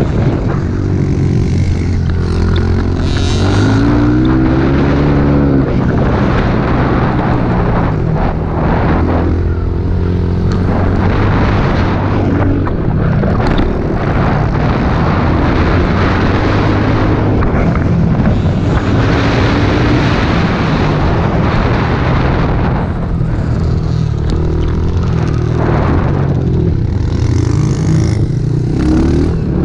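Small single-cylinder pit bike engines being ridden hard, revving up and dropping back again and again as the rider works the throttle and gears.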